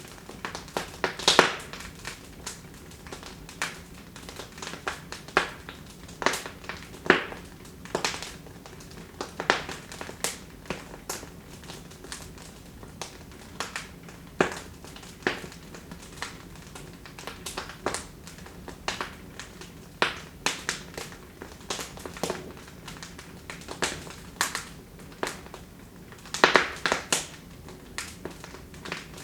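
Wood fire crackling in a fireplace: irregular sharp pops and snaps from the burning logs over a low steady hiss, with a brief flurry of louder pops about a second in and again near the end.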